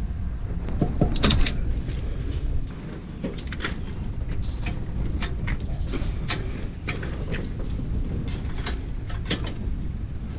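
Scattered clicks and clinks of hand tools and metal engine parts being handled during engine teardown, over a steady low rumble.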